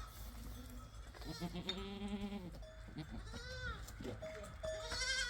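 Goats bleating in a flock: several separate wavering calls, one lower and longer about a second in, then higher ones a couple of seconds later and near the end.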